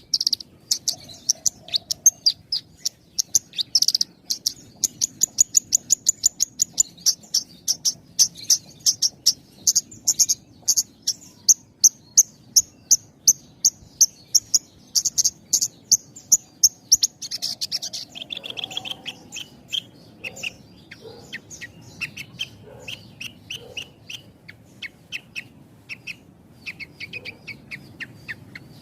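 Javan bush lark (branjangan) singing: a fast, even run of sharp high chirps, about three or four a second, that changes about two-thirds of the way through into lower, more varied notes.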